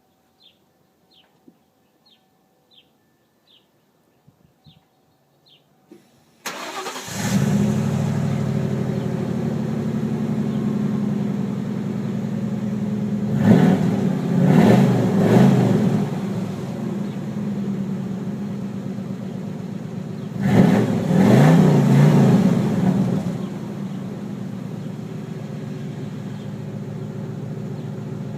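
A 1994 Ford Crown Victoria's 4.6-litre V8 with a new dual exhaust starts about six seconds in and settles into a steady idle. It is revved in a quick burst of blips about halfway through, again a few seconds later, and then returns to idle.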